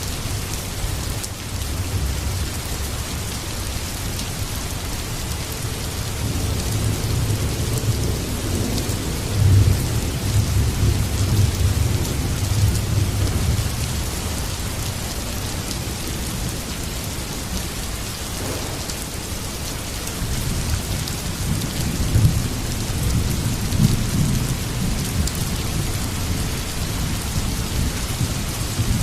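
Heavy rain hissing steadily on surfaces, with thunder rumbling low underneath. The rumbles swell in long rolls, heaviest between about a quarter and a half of the way through and again near the end.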